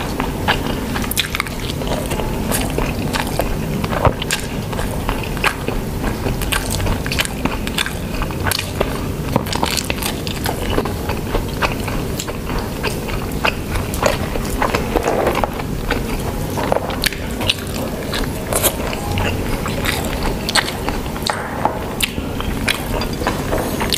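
Close-miked eating of pork adobo and rice: chewing with frequent wet lip smacks and mouth clicks throughout.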